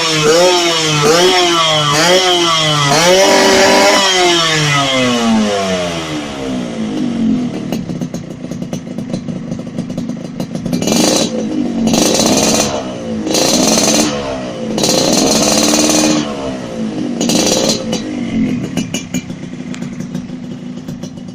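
Yamaha RX-King two-stroke motorcycle engine through a racing exhaust, revved in quick repeated blips, then winding down in pitch. About halfway through it is blipped five more times in short, sharp revs, then settles back to a lower, steadier running sound.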